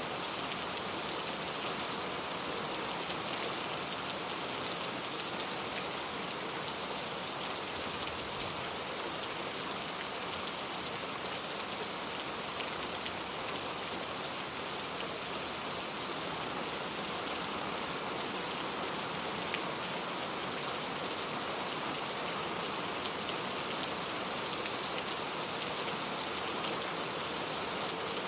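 Steady rain falling on a surface, an even hiss of many drops with scattered individual drop ticks and no rumble or thunder.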